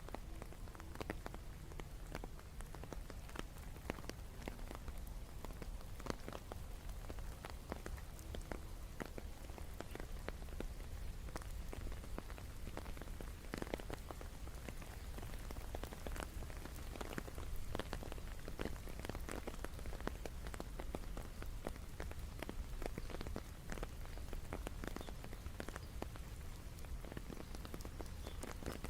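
Steady rain, with many individual drops ticking sharply over an even patter and a low steady rumble underneath.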